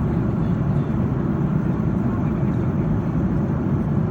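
Steady low drone inside an Airbus A330-200 airliner's cabin, the noise of its engines and rushing air, even and unchanging throughout.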